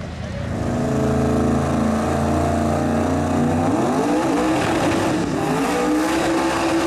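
Drag race car's engine at full throttle, coming in about half a second in, holding a steady pitch, then climbing higher about halfway through and holding there as the car accelerates down the track.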